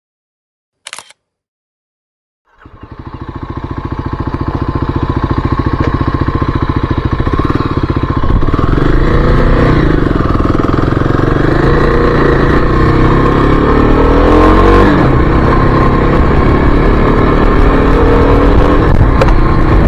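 A camera shutter clicks once about a second in. After a short silence, the 2023 Kawasaki KLX300's single-cylinder four-stroke engine fades in and runs steadily under way, its pitch rising and falling a few times.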